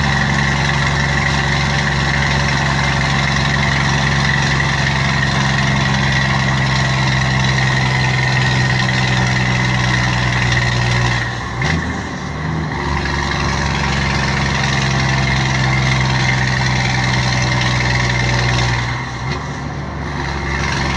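Scania 124G 420 truck's straight-six diesel engine running steadily through a straight exhaust pipe. Its note dips and wavers briefly twice, about halfway through and near the end.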